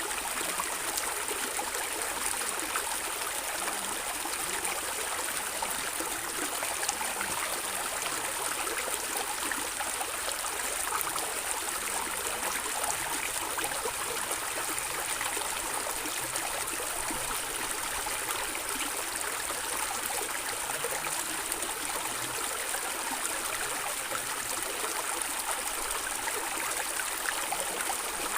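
Shallow stream of water flowing and gurgling steadily, with a bright hiss and fine splashing texture.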